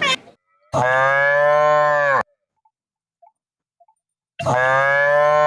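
A cow mooing twice, two long steady calls of about a second and a half each, with silence between.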